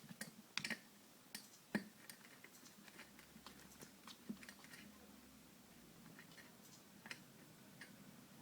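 Faint, irregular taps and clicks of a cat pawing and mouthing a small toy mouse, the sharpest about half a second in and near two seconds in.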